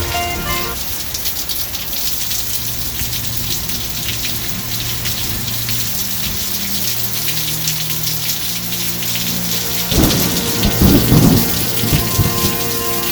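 Heavy hurricane rain pouring steadily, a dense patter of drops. About ten seconds in comes a loud low rumble of thunder.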